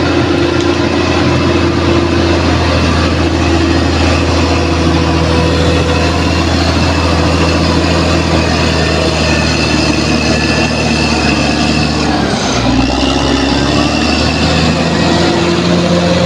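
Bulldozer's diesel engine running steadily under working load, with a brief drop in engine pitch about twelve seconds in before it settles again.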